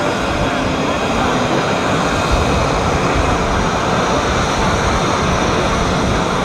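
Jet engine of a CT-133 Silver Star, a Rolls-Royce Nene turbojet, running as a steady, loud, even rush of noise.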